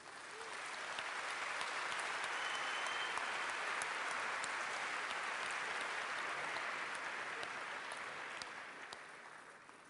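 Large audience applauding the unveiling of a new phone. The applause swells up at once, holds steady for several seconds and fades out near the end.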